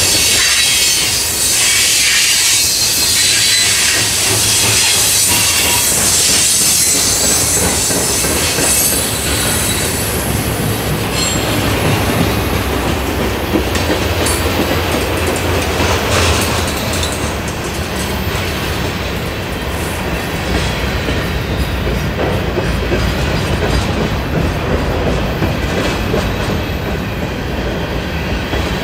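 A train rolling past on the rails: continuous wheel-on-rail noise with a high hiss that eases after about eight seconds, while a low rumble grows stronger.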